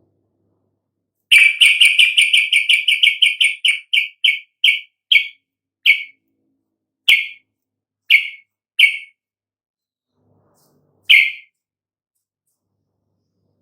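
Yellow-vented bulbul (trucuk) calling: a fast run of short, sharp chirps, about eight a second, that slows down into single chirps spaced about a second apart.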